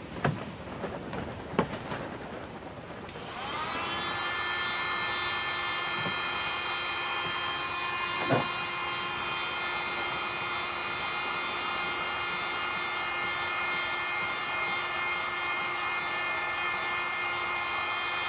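Hand-held heat gun, used as a hot-air plastic welder, switched on about three seconds in: its fan motor rises in pitch to speed, then runs steadily with a whine, and starts to wind down at the very end. A few handling knocks come before it starts, and one more about eight seconds in.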